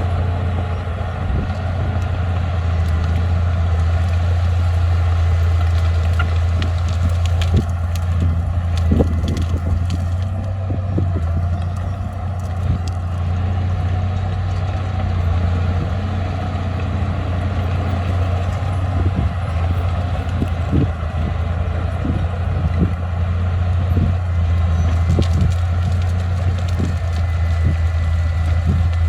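Diesel engine of a heavy earthmoving machine running steadily with a deep, even hum, with scattered short clanks and crunches over it.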